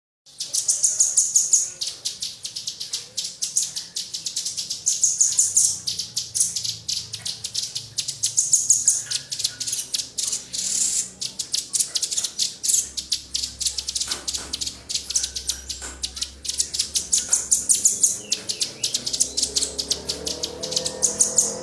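Rapid runs of sharp, high-pitched chips from small songbirds, in quick bursts with short gaps. Faint music comes in near the end.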